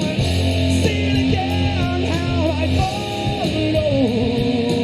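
Live rock band playing: a melody line glides and bends between held notes over a sustained bass note and drums.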